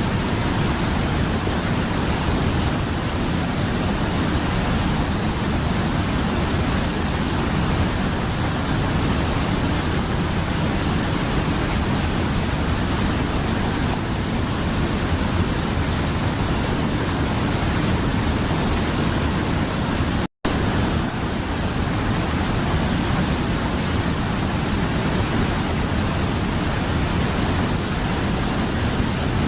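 Mountain river flowing, a steady full rush of water. It drops out for a split second about two-thirds of the way through, then carries on unchanged.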